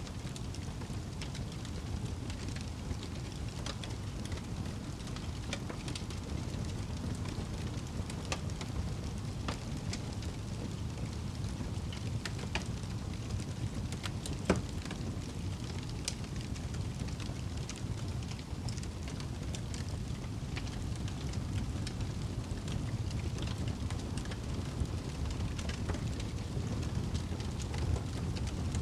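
Wood fire burning in a fireplace: scattered crackles and pops over a steady low rumble, with one louder pop about halfway through.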